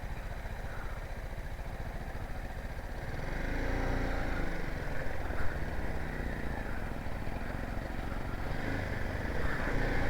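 BMW G 310 GS motorcycle's single-cylinder engine running at low speed, picking up revs about three to four seconds in and then holding steady.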